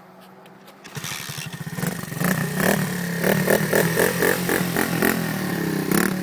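Dirt bike engine starting about a second in, then revved in a string of short blips.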